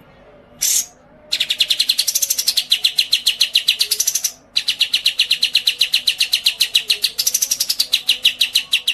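A songbird giving one short high call, then a long, very fast chattering trill of sharp high notes, about ten a second, broken once by a brief pause about four and a half seconds in.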